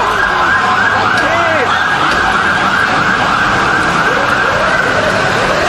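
Emergency vehicle siren in a rapid yelp, rising and falling about four times a second, over street traffic noise.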